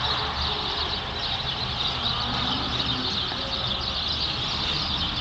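Outdoor ambience: a steady, dense chatter of many birds, over a low rumble.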